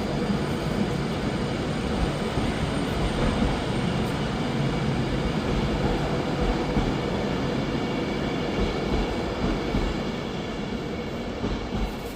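A train running past: a steady rumbling rush of wheel and motion noise that eases off slightly near the end.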